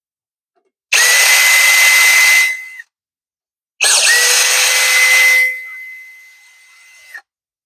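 Electric power tool running in two bursts, about two and three seconds long, with a steady high whine; the second burst trails off before stopping.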